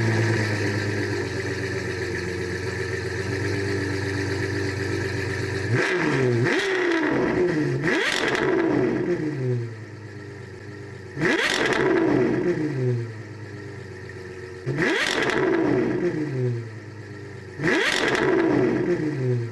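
Car engine running steadily, then blipped sharply about five times in the second half, each rev falling back toward idle.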